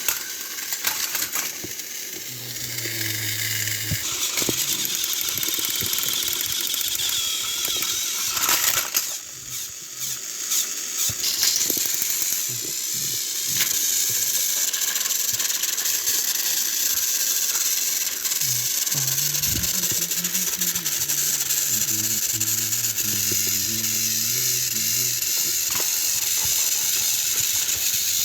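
Battery-powered Trackmaster toy train motors running with a steady high whine, the wheels rattling and clicking on plastic track. Short pitched sounds come in twice.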